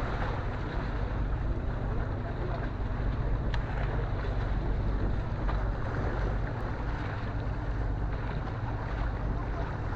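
Steady wind buffeting the microphone, a constant low rumbling rush without breaks.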